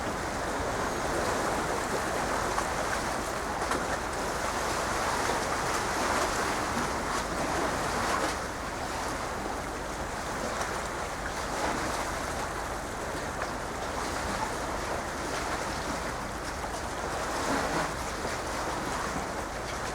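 Sea waves washing in a steady rush that swells and eases every few seconds, with some wind on the microphone.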